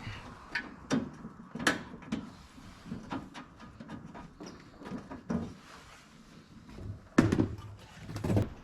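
Scattered knocks and clunks of metal parts being handled on a Jeep's rear as the tire carrier is refitted, with one heavy thump about seven seconds in.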